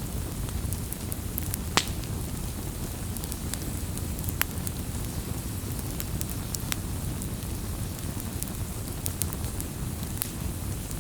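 Wood campfire burning: a steady low rumble of flame with scattered sharp crackles and pops, the loudest pop about two seconds in.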